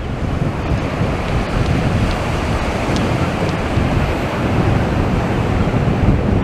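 Strong wind buffeting the microphone, with a steady rumble, over the wash of waves breaking on the shore.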